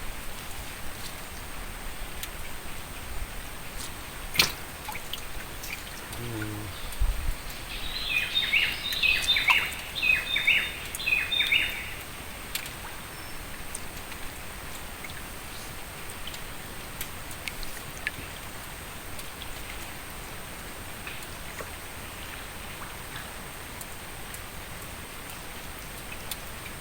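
A bird calls a quick series of short, high chirps for about four seconds, a third of the way in, over a steady background hiss; a single sharp click comes shortly before the chirps.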